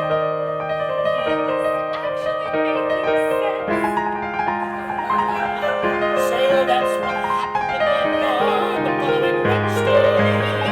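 Piano accompaniment playing slow sustained chords over a bass line, the chords changing about every few seconds.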